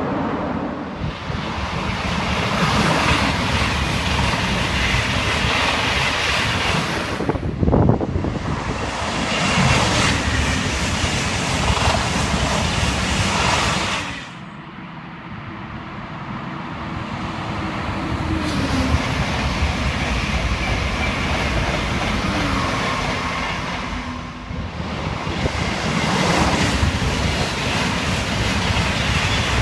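High-speed trains passing at speed: first a loud steady rush of a train through an underground station, with a brief louder burst about eight seconds in. After a cut, a TGV running past on open track, the noise swelling, dipping briefly and swelling again.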